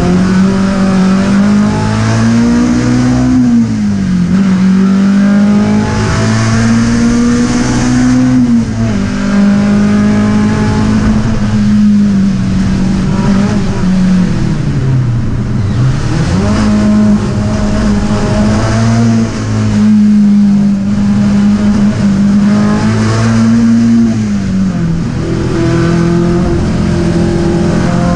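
Skoda 130 RS's rear-mounted four-cylinder engine running hard on a racing lap, heard from inside the cabin. The revs hold high for stretches, then drop away and pick up again about four times.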